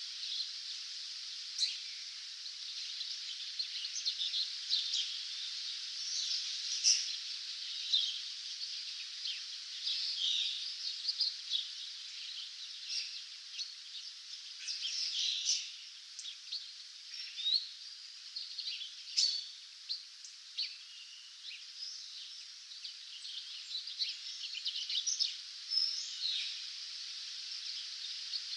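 Several wild birds singing at dawn, overlapping short chirps and trills that come and go throughout, over a steady high hiss.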